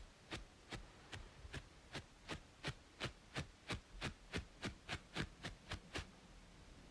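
Rhythmic scratching on a scalp between braids, about three short strokes a second for around six seconds, then stopping. A faint steady white-noise hiss lies underneath.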